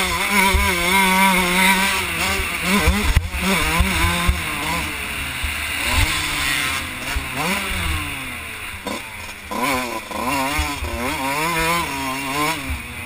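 2001 Kawasaki KX125 two-stroke 125 cc motocross engine, heard from the rider's helmet, revving up and dropping back over and over as the bike is ridden around the track, its pitch climbing and falling with each burst of throttle.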